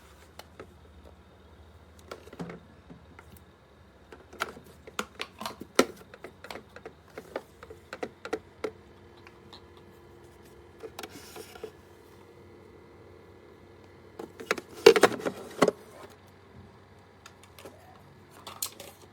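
Steady low electrical hum of a small thermoelectric mini fridge running, under a scattered run of clicks, taps and rattles from handling. The handling noises are loudest in a cluster about 15 seconds in.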